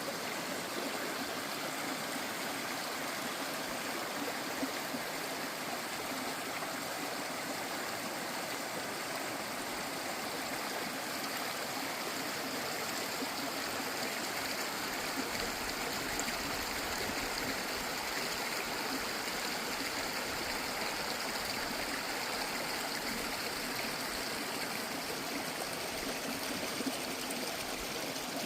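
A stream rushing and burbling steadily over stones.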